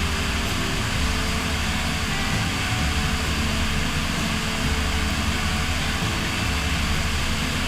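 Propeller aircraft in flight: a steady engine and propeller drone at an even level.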